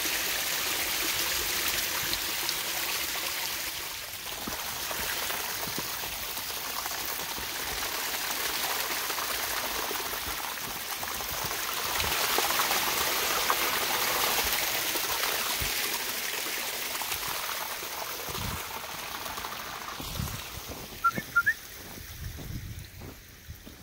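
Spring runoff water trickling through rocks, a steady rushing that fades near the end, where a few sharp clicks come.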